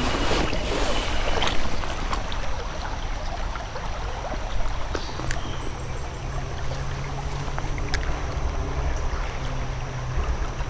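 Shallow creek water running and splashing, a steady rushing noise with a few light clicks and knocks.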